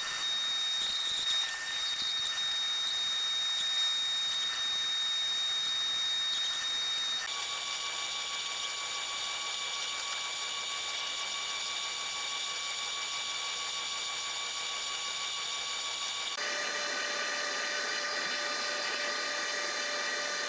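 Newly installed boilers and circulator pumps running: a steady high-pitched whine of several fixed tones over a faint hiss. The mix of tones changes abruptly about seven seconds in and again about sixteen seconds in.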